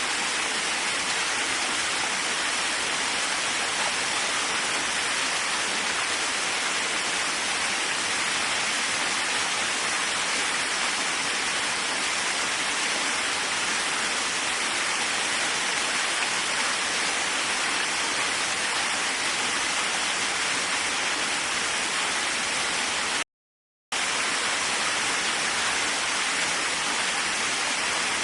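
Waterfall rushing steadily, an even roar of falling water. About five seconds before the end it cuts out completely for half a second, then resumes.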